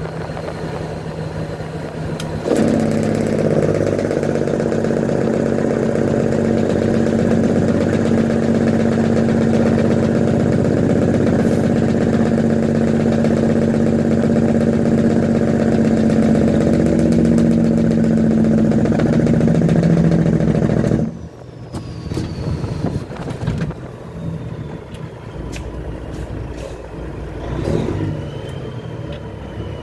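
Kenworth truck's engine brake firing through 8-inch straight pipes: a loud, steady, rapid rattle with a strong pitched note. It comes on suddenly a couple of seconds in and cuts off abruptly about two-thirds of the way through, leaving the engine's quieter running.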